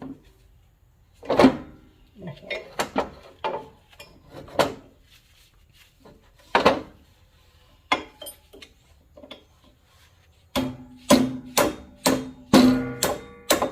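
Scattered metal knocks and clinks on the tractor's shift linkage, then near the end a quick run of about ten sharp metal-on-metal strikes, some with a short ring, as a part is tapped into place.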